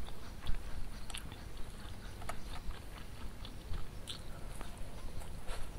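Close-miked chewing of fried tempeh eaten by hand, with scattered small clicks about once a second.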